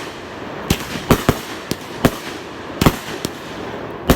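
Fireworks going off: a quick, irregular string of sharp bangs, about eight in four seconds, over a steady background hiss.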